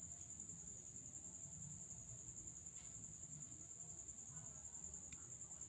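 Near silence: faint room tone with a steady, high-pitched trill that runs without a break, and a couple of faint ticks near the end.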